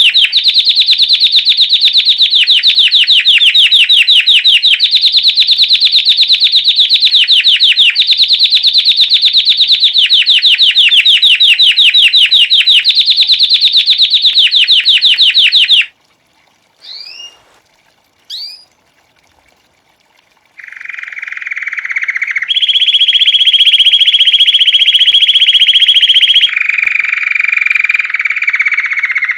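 Belgian canary singing in the classic bell-like 'campainha' style: long, very fast trills of repeated notes in sections of about two seconds each. More than halfway through it pauses with two short rising chirps, then resumes with lower, held rolling tours that step between pitches.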